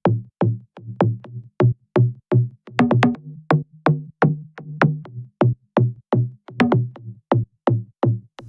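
Future house synth bass playing a bouncy line of short, punchy notes, about two to three a second. Each note opens with a fast downward pitch drop set by a pitch envelope, which gives the punchy attack.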